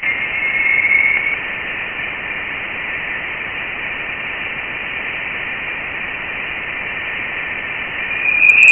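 Voyager 1's Plasma Wave Science instrument data played back as sound: a steady, radio-like hiss with a thin tone riding near its top, which swells louder about a second in and again near the end. It is the electron plasma oscillation the probe picked up, taken as the sign that it had crossed the heliopause into interstellar space.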